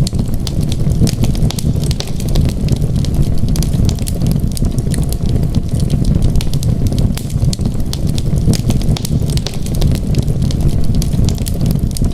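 Wood fire crackling in a fireplace, with frequent small sharp pops over a steady low rumble.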